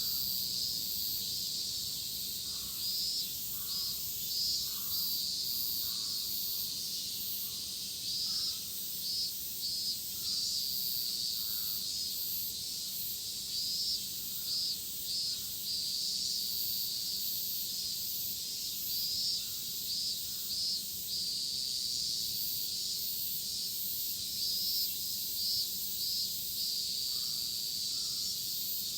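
A chorus of cicadas buzzing, a steady high-pitched drone with a pulsing beat of a few strokes a second that swells and eases.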